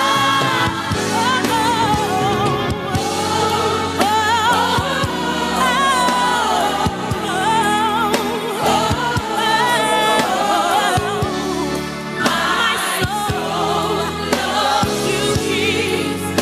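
Gospel music: several voices singing with vibrato over a backing band with bass and a steady drum beat.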